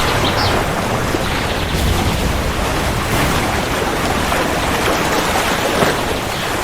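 Heavy rain falling steadily, with a low rumble of thunder underneath about two seconds in.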